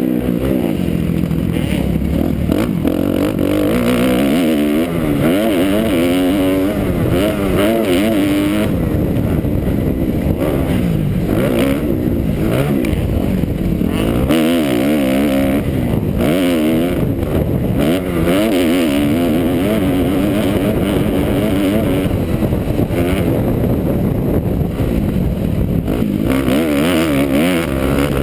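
2009 Kawasaki KX250F's four-stroke single-cylinder engine revving hard, its pitch climbing and dropping again and again as the rider works the throttle and gears around a motocross track.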